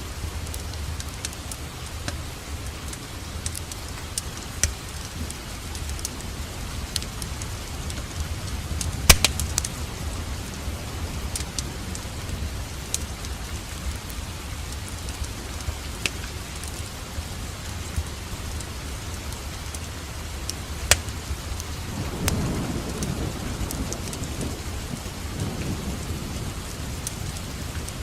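Steady rain with a low rumble underneath, dotted with sharp crackles and pops from a fireplace, a cluster of them about nine seconds in. A low roll of distant thunder swells up about 22 seconds in and fades over a few seconds.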